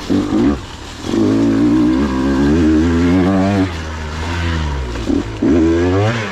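KTM 125 XC two-stroke dirt bike engine revving under the throttle in bursts: a short blip, then a long rev with a wavering pitch, dropping back, and a rising rev near the end.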